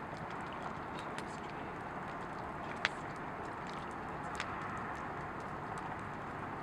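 Wood fire crackling: a steady hiss with a few sharp, irregular pops, the loudest about three seconds in.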